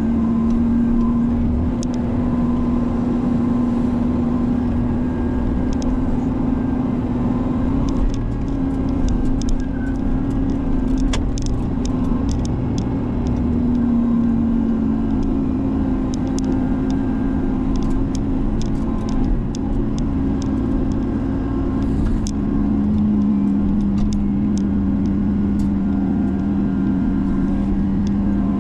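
Diesel engine of a Menzi Muck spider excavator running steadily, its note dropping slightly twice, with scattered light sharp clicks and knocks.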